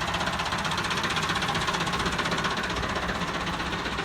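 Massey Ferguson 375 tractor's diesel engine running steadily with a fast, even firing beat.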